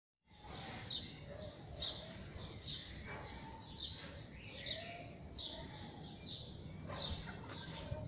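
Birds singing in the morning: a high, sharp falling note repeated about once a second, with softer, lower warbled notes among them, over a steady low background hum.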